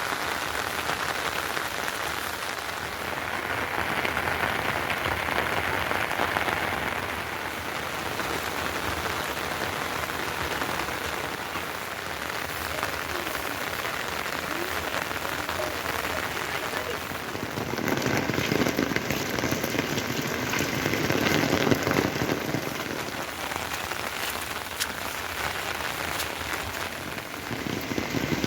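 Heavy rain falling steadily on surfaces, an even hiss that grows louder for a few seconds about two-thirds of the way through.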